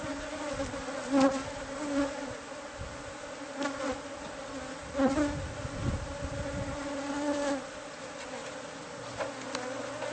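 A swarm of honeybees buzzing steadily around their exposed hive, with a few short knocks or clicks now and then.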